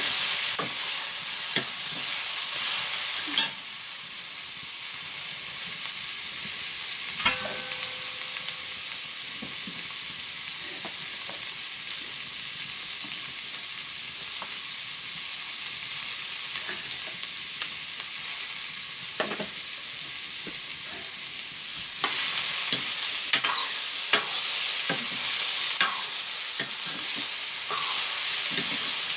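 Vegetable pieces sizzling as they fry in an iron wok, with a metal ladle stirring and scraping against the pan at the start and again for the last several seconds. In between the sizzle runs on steadily and quieter, with a few knocks.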